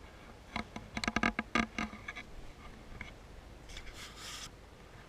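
A quick run of wooden knocks and rubbing, typical of a paddle striking and scraping the gunwale of a cedar strip canoe, followed about four seconds in by a brief hiss.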